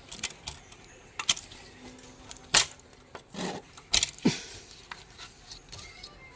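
Metal hand tools and engine parts clinking and knocking against each other, with a short scrape, as a scooter engine is taken apart; the loudest knock comes about two and a half seconds in, another near four seconds.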